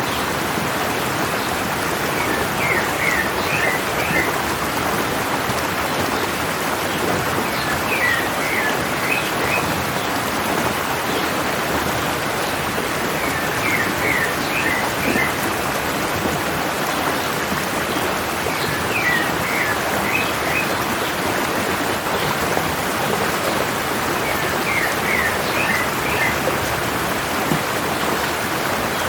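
Stream water running steadily down a mountain. A small bird repeats a short phrase of quick chirps about every five to six seconds.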